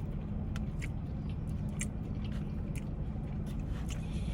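Close-up chewing of a grinder sandwich, with scattered sharp, wet mouth clicks over a steady low hum.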